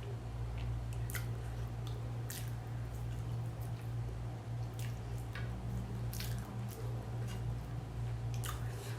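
Close-up wet mouth sounds of a person chewing and eating a rice dish: scattered soft smacks and clicks every second or so, over a steady low hum.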